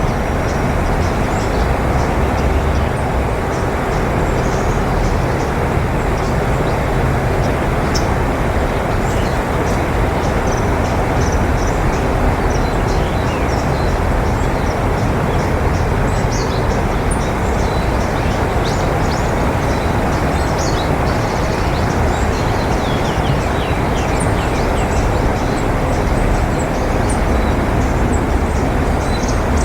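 A steady, loud rumbling noise, with small birds calling all through it in many short high chirps and trills that grow busier in the second half.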